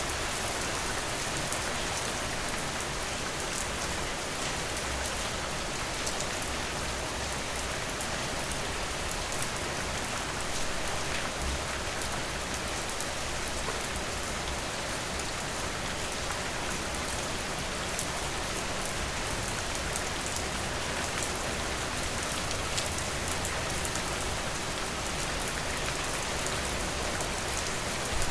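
Steady rain falling, with scattered small sharp ticks of individual drops.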